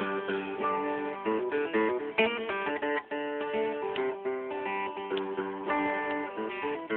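Acoustic guitar being played, a steady run of strummed and picked chords.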